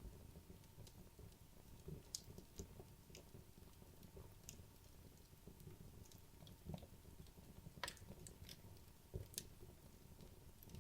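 Wood logs burning in a fireplace, crackling faintly: irregular small pops and ticks over a low rumble, with the sharpest pops about two seconds, eight seconds and nine seconds in.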